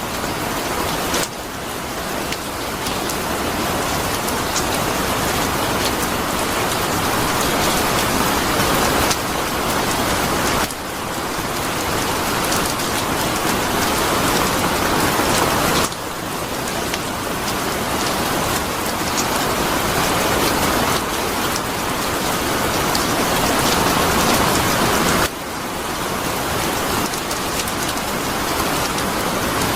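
Steady heavy rain falling on a surface, a dense even hiss. The loudness drops suddenly a few times and then slowly builds back up.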